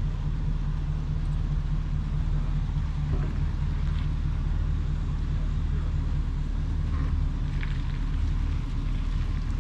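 Steady engine and road drone heard from inside a moving vehicle's cabin with the windows closed: a continuous low hum.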